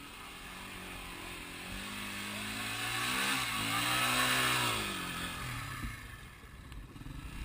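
Enduro motorcycle engine revving hard under load, its pitch rising and falling with the throttle, growing louder to a peak about four seconds in and then fading.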